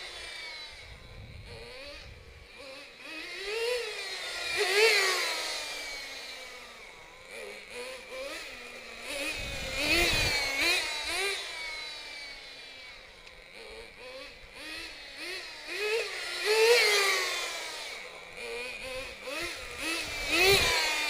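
FTX Banzai's .18 nitro two-stroke engine revving up and down with the throttle as the RC car makes repeated passes, loudest as it goes by about five, ten, seventeen and twenty-one seconds in. Its two-speed gearbox is not shifting, which the owner puts down to a grub screw set too tight.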